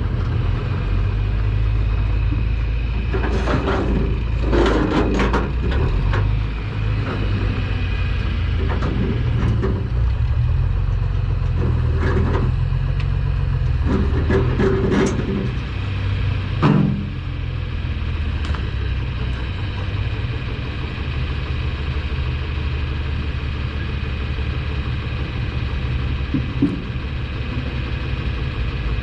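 Semi-truck diesel engine running steadily with a low rumble. Scattered knocks and rattles come through it, with one sharp thump about two-thirds of the way in.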